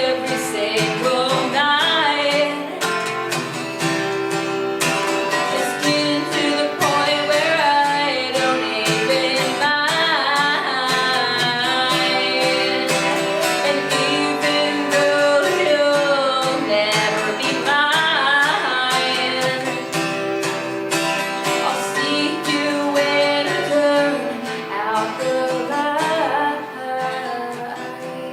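A woman singing to her own strummed acoustic guitar: a live solo song, fading down near the end.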